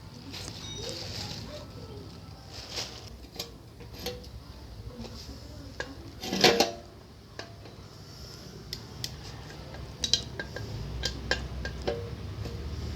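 Small metal engine parts and hand tools clinking and knocking against each other during scooter engine assembly, with a louder metallic clatter about halfway through.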